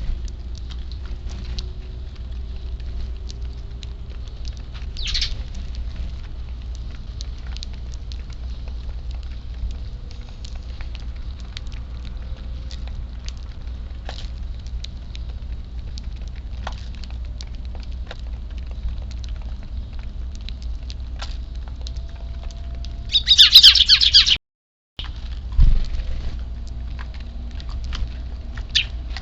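Eurasian tree sparrows chirping: a faint chirp early, then a loud burst of rapid high chirps about 23 seconds in, over a steady low hum and scattered light ticks. Just after the burst the sound cuts out for a moment, and a low thump follows.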